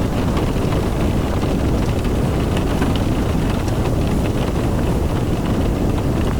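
Car driving in the rain: a steady rumble of road and wind noise, with faint short crackles above it.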